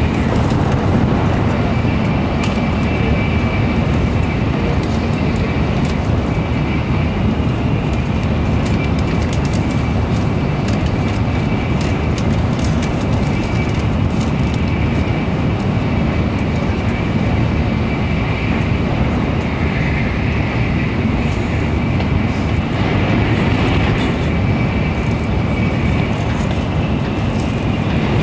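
Steady running noise of a Shinkansen bullet train at speed, heard from inside the passenger car: a constant low rumble with a faint, steady high whine over it.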